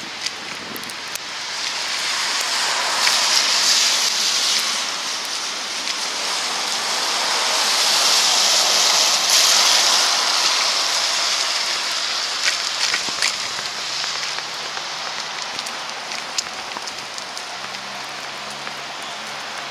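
Tyres hissing through wet slush on a city street as traffic passes, the hiss swelling over several seconds and then slowly fading. A low engine hum joins in the second half.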